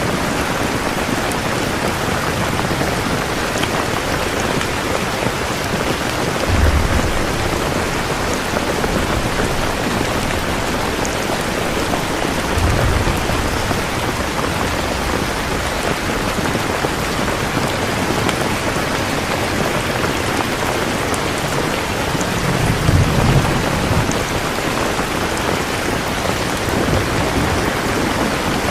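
Steady rain falling, an even hiss of drops. Three short low rumbles rise out of it, the last and longest near the end.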